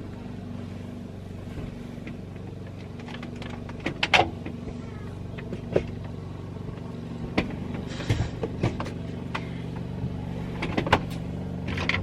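Ride-on lawnmower engine running steadily, with scattered clicks and knocks over it.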